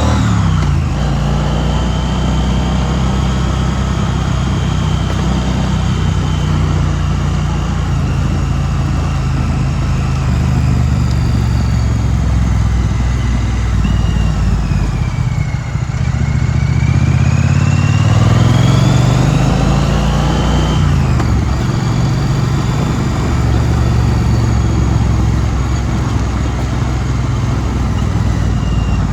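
Triumph Street Twin's 900 cc parallel-twin engine running as the motorcycle is ridden. Its pitch falls at the start, climbs steadily through the middle, then drops sharply about twenty seconds in.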